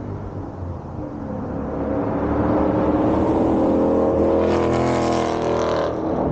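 2021 Mustang GT's 5.0 V8 through a Borla ATAK cat-back active exhaust, accelerating and growing louder, loudest in the second half, then dropping off sharply near the end.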